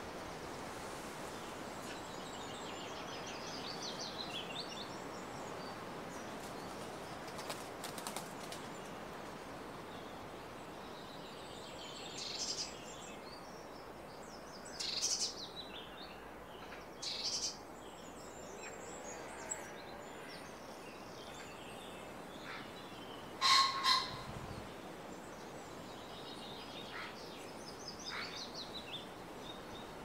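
Small birds calling intermittently with short, high-pitched chirps and twitters over a steady background hiss, with a louder double burst about three-quarters of the way through.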